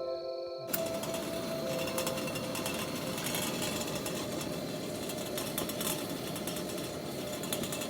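Wood campfire crackling and hissing, with a constant run of irregular sharp pops and snaps.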